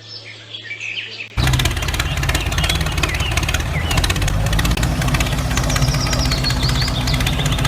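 A mini tractor's engine starts suddenly about a second and a half in and runs steadily with a fast, rattling knock. Birds chirp faintly over it.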